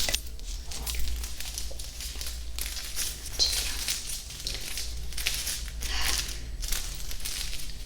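Close-miked ASMR trigger sounds: crinkly, crackling swishes with many small clicks, swelling and fading every second or so.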